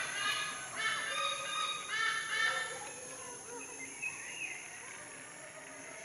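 Birds calling: several loud calls in the first three seconds, then fainter calls over a steady high hiss.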